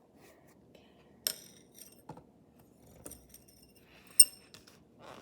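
A drink bottle being handled on a hard surface: a few light clinks with a short, high ringing, the loudest about four seconds in, and a duller knock between them.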